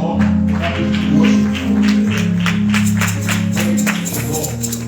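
Live church band music: held bass and keyboard chords with a steady shaken-percussion beat, about four or five strokes a second. There are no words.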